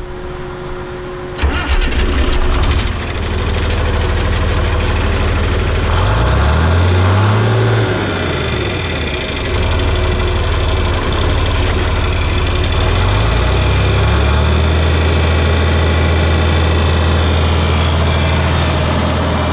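Farm tractor engine starting about a second in, then running. It revs up and drops back a few seconds later, then climbs to a higher, steady speed.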